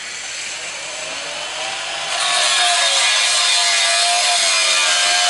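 Angle grinder with a cutting disc cutting through steel plate, the motor's whine wavering under load. It gets louder about two seconds in as the disc bites into the metal.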